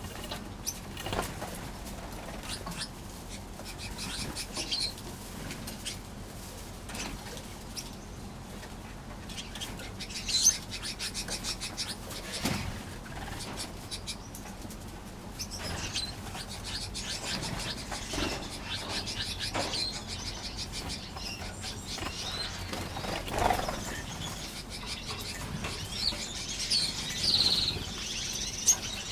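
Small aviary finches chirping and calling intermittently, with frequent brief wing flutters as birds fly between perches. A quick run of chirps comes about ten seconds in, and the calling grows busier near the end.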